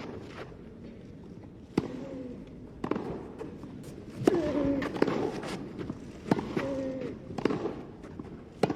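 Tennis rally: a racket strikes the ball about once every second and a bit, and several of the shots come with a short grunt from the player.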